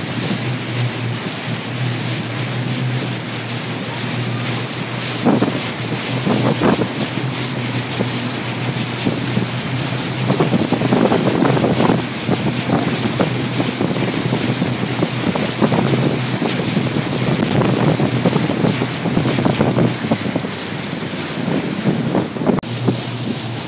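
Tigé wake boat under way: a steady low engine drone under rushing water and heavy wind on the microphone, which gusts and swells unevenly from about five seconds in.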